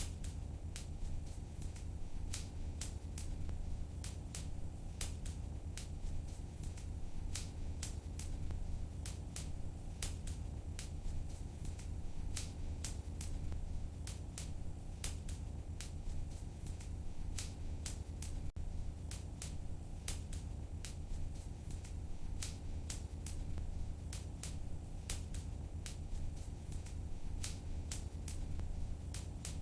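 Wood fire crackling in a fireplace: sharp snaps come irregularly, several a second, over a steady low rumble.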